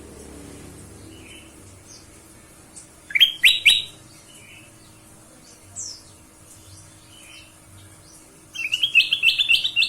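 Kutilang emas bulbul calling: a quick burst of rising chirps about three seconds in, a single note near six seconds, then a fast chattering run of notes from about eight and a half seconds, the loudest part. Faint soft notes come between.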